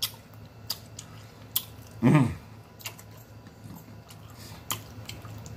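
Close-up mouth sounds of a person chewing: scattered sharp lip smacks and tongue clicks, with one brief hummed "mm" about two seconds in.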